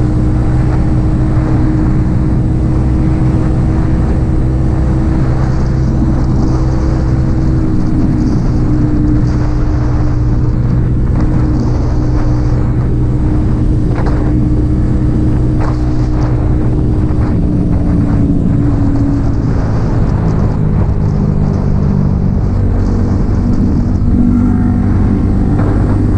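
Yamaha XSR 155's single-cylinder engine, breathing through an aftermarket M4 exhaust, running at a steady cruise. About three-quarters of the way through, the engine note drops and then shifts up and down in steps.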